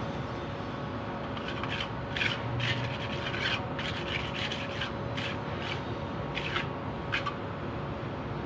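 About a dozen short scraping or rubbing strokes by hand, roughly two a second, starting about a second and a half in and stopping about a second before the end, over a steady hum.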